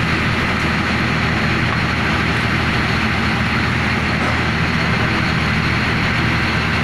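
Heavy diesel engine running steadily under load, a constant low hum with dense mechanical noise over it.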